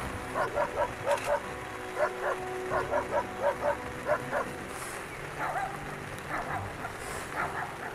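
Hunting hounds baying in quick runs of short, sharp barks, about four a second, thinning to scattered barks past the middle. This is the bay of hounds holding a cornered mountain lion on a rock.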